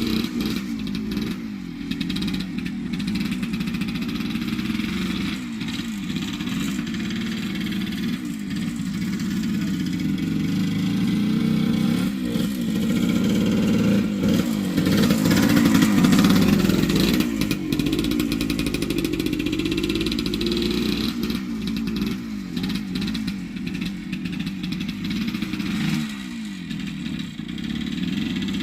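1978 Yamaha DT100's two-stroke single-cylinder engine under way while being ridden, its pitch rising and falling again and again as it accelerates and eases off, loudest about halfway through. The rider judges the carburettor to be running too rich.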